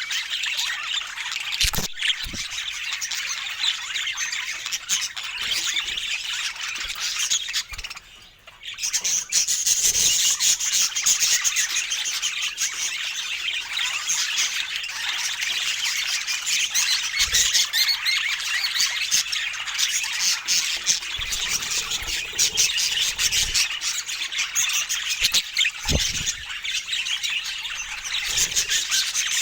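Budgerigars chattering in a dense, continuous stream of quick chirps and squawks, with a brief break about eight seconds in.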